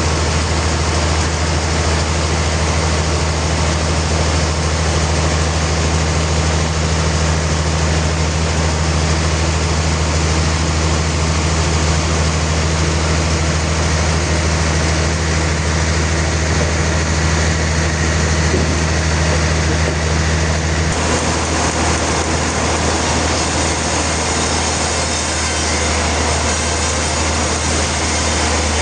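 Sawmill machinery running steadily, a low motor hum under a harsh sawing noise. The sound changes abruptly about two-thirds of the way through, as one part of the hum drops out.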